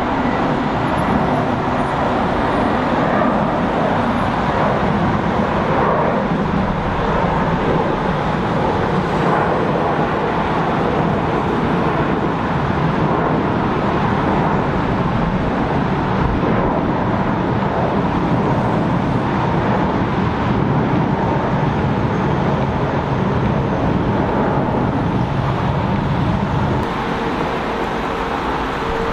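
Jet airliner engines after takeoff: a steady, even rushing noise with a faint steady whine in it, dropping slightly in level near the end.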